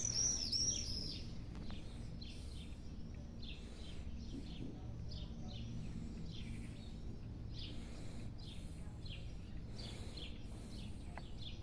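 Small birds chirping over and over, short high chirps coming in runs, over a steady low background hum.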